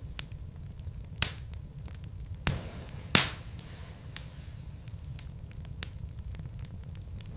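Wood logs burning in a fireplace, crackling with scattered sharp pops over a low steady rumble. Three louder pops come in the first half, the loudest about three seconds in.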